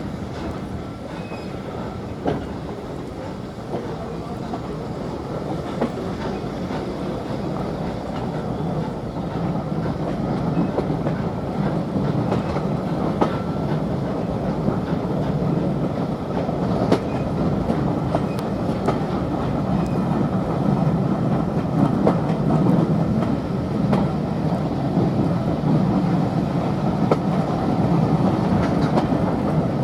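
A train running on the rails, a steady rumble with scattered clicks from the wheels, growing gradually louder.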